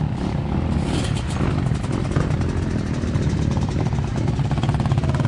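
Motocross motorcycle engines running on the track. A fast, even firing pulse grows clearer about halfway through.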